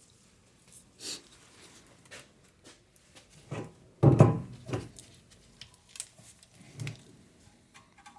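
Scattered clicks, taps and knocks of brake parts and tools being handled during rear brake work, with one loud thump about four seconds in.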